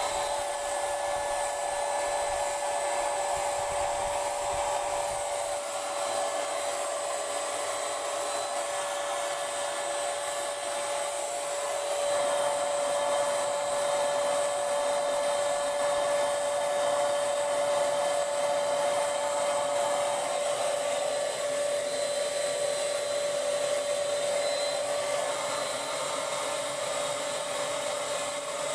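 Paint Zoom handheld electric paint sprayer running steadily: a motor hum with the rush of its air and spray. It gets a little louder about twelve seconds in.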